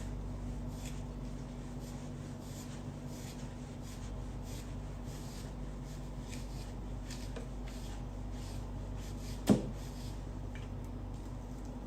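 Soft, irregular rubbing and rustling of a towel drying hair, over a steady low electrical hum, with one sharp knock about nine and a half seconds in.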